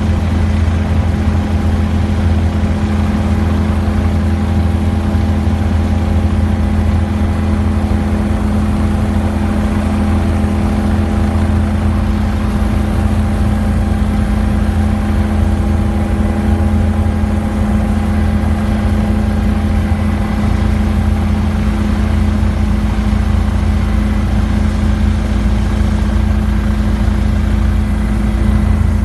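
Helicopter engine and rotor noise heard from inside the cabin: a loud, steady drone with a constant low hum, unchanging throughout.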